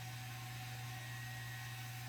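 Quiet room tone: a steady low electrical hum under a faint even hiss.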